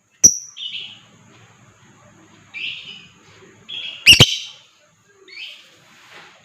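Lovebirds chirping: short shrill chirps about once a second, with two loud sharp calls, one just after the start and one about four seconds in.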